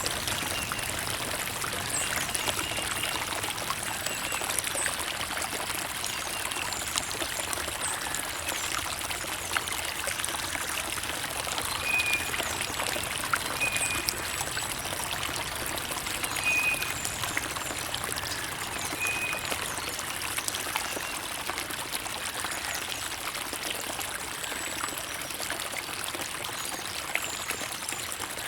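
Creek water trickling and streaming steadily, a continuous rush flecked with small splashes, with a few short, faint high chirps over it.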